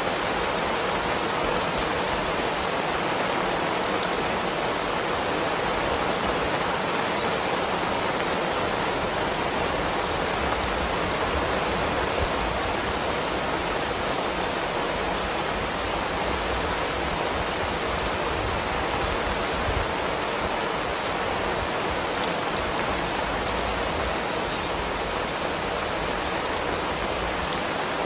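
Steady rain falling, an even wash of noise with faint scattered drop ticks.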